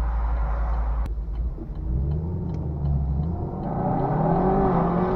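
Car engine and road rumble from a moving vehicle, the engine note rising and falling as it speeds up. There is a sharp click about a second in, and faint regular ticking for a couple of seconds after that.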